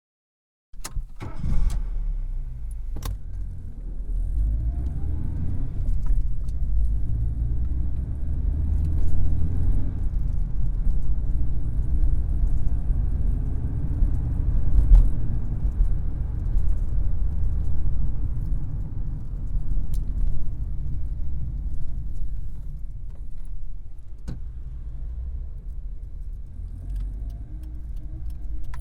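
Vauxhall Carlton's engine running with a low, uneven rumble, starting abruptly under a second in, with scattered clicks and rattles over it.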